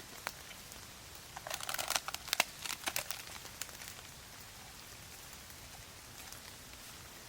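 Steady rain falling, with a burst of crinkling and crackling, like a packet being handled, from about a second and a half in, lasting about a second and a half.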